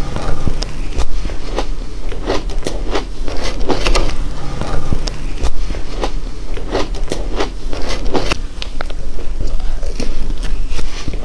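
Frozen matcha ice being bitten and chewed close to the microphone, with crisp crunches coming irregularly, one or two a second.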